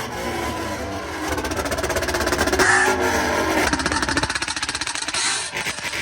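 Car engine revved hard during a rev battle. The pitch climbs and wavers for the first few seconds, then from just past halfway it turns into a fast, even stuttering pulse.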